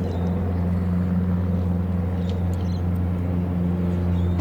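Cessna 172's piston engine idling with a steady low hum.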